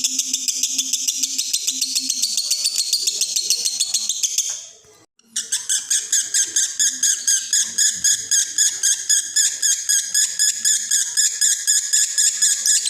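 Male lovebird in breeding condition singing 'konslet', a long unbroken chatter of rapid high notes repeated several times a second. It fades out about four and a half seconds in, breaks off for a moment, then starts again abruptly and runs on.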